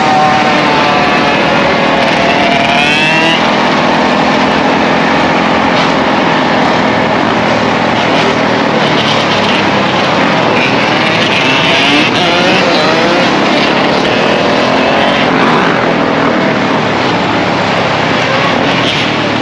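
Several dirt bike and ATV engines running together, their pitches rising and falling as riders rev and accelerate.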